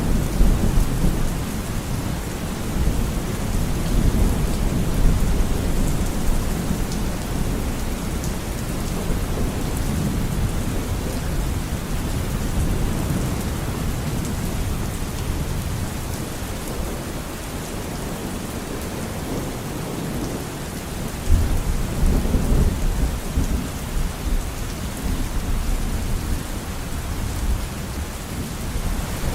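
Steady rain falling, with low rolling thunder rumbling under it; the rumble is heaviest at the start, eases off, then a new roll of thunder swells about two-thirds of the way through.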